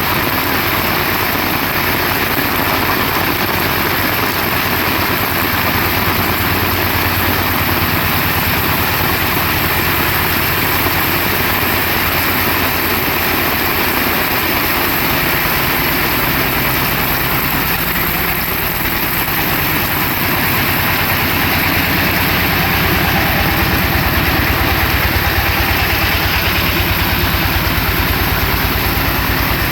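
Heavy rain falling in a steady, even hiss, with a low rumble underneath that grows louder in the second half.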